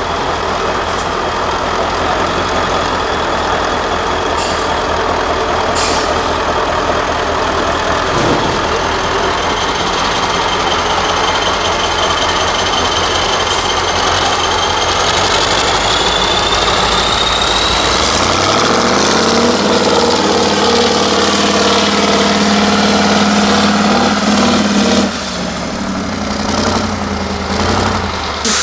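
Diesel engine of an 8x8 Mercedes-Benz trial truck working under load, with a high whine that rises in pitch midway. About two-thirds through, the engine revs up and holds high, then drops off suddenly near the end.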